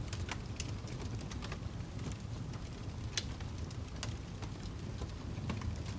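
Log fire crackling: scattered sharp pops and snaps at irregular intervals over a low, steady rumble.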